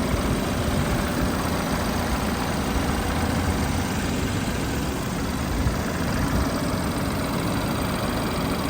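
BMW 228i's 2.0-litre turbocharged four-cylinder engine idling steadily, heard with the hood open.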